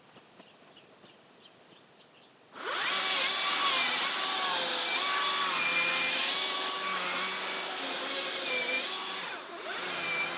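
A power tool's motor starts suddenly about two and a half seconds in and runs loud, its whine stepping up and down in pitch, with a brief dip near the end.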